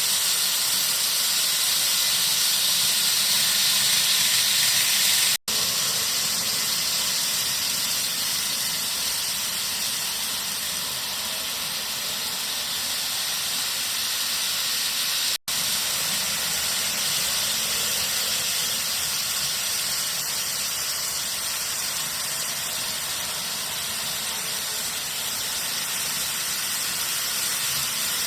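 KATO N-scale model train running on its track: a steady hissing rumble of wheels on rails and the motor whir. It breaks off abruptly twice, about five and fifteen seconds in.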